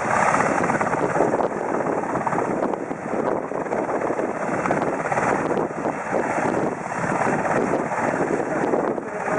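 Sikorsky S-70i Black Hawk helicopter flying in, its rotor and turbine noise a loud, dense rush that swells and dips.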